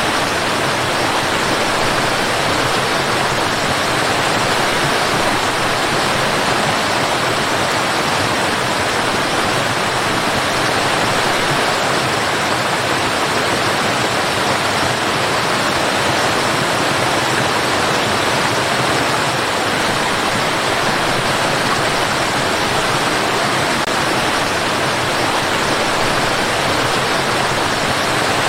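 Tall waterfall crashing down in a steady, unbroken rush of falling water.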